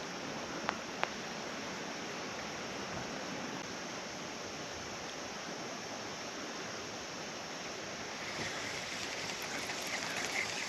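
Steady rush of flowing stream water, with two light clicks about a second in. From about eight seconds on a nearer, grittier splashing layer joins and the sound grows a little louder.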